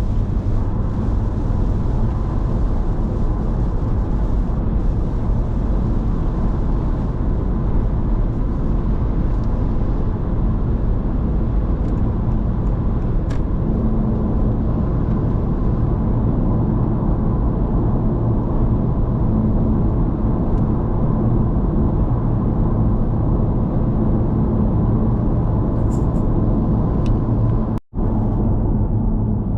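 Steady road noise inside a Honda ZR-V's cabin while cruising: a continuous low drone of tyres and drivetrain. The sound cuts out for a split second near the end.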